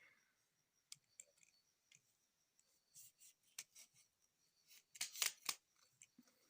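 Faint, scattered clicks of a plastic phone stand with a built-in light being handled, with a quick cluster of sharper clicks about five seconds in.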